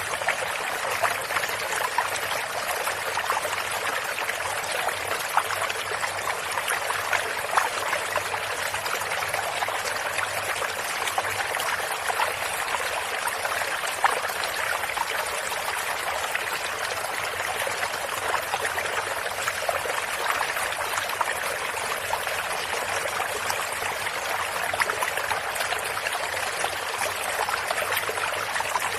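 Small stream running steadily over stones, an even trickling and splashing with little bursts of droplets, strongest in the higher pitches and with almost no low rumble.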